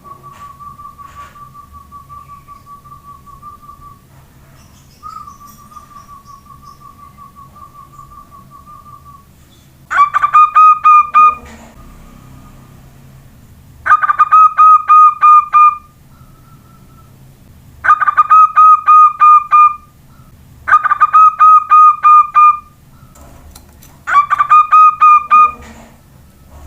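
Soft, wavering trilled whistling twice, coaxing a young zebra dove (perkutut). Then five loud bursts of rapid pulsed cooing notes, each lasting about two seconds.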